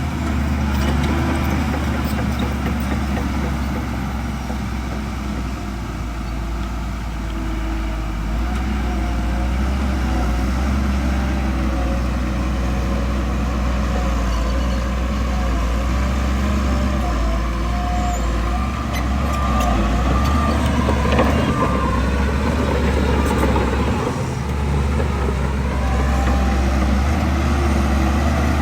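Heavy diesel engines of earthmoving machinery running steadily with a deep drone, the engine note wavering as the machines work; near the end it dips briefly and then climbs again.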